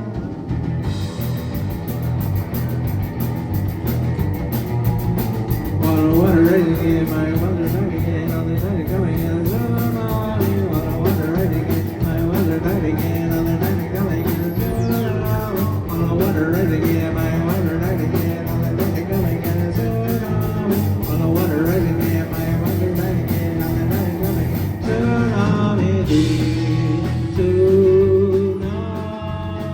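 Live rock band playing with a steady beat, and a wavering lead melody coming in about six seconds in.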